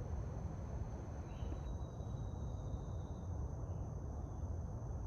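Forest ambience: a steady low rumble and hiss under a continuous high, thin insect drone, with a fainter higher whine joining for about two seconds near the middle.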